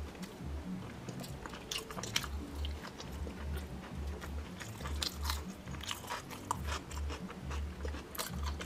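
Close-up eating sounds: irregular crunching, biting and chewing of ugali, sukuma wiki and meat taken by hand.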